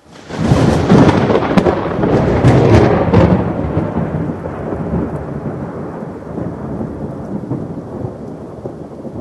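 A thunderclap: a loud crack with crackling about one to three seconds in, then a rumble that slowly fades, over steady rain.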